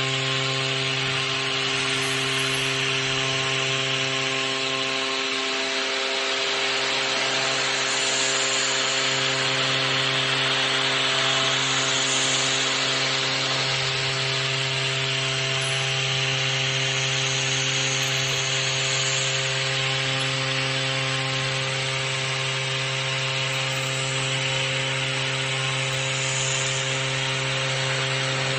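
Tomahawk Pro CNC machine cutting a plate: a steady hum from the running machine under a continuous hiss of the cutter working the material, unchanging throughout.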